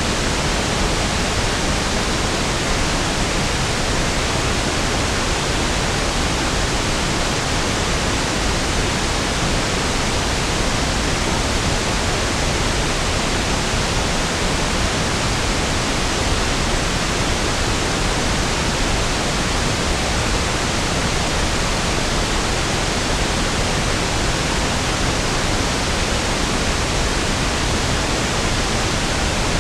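Steady pink noise (1/f noise), an even hiss with equal energy per octave that sounds softer and deeper than white noise.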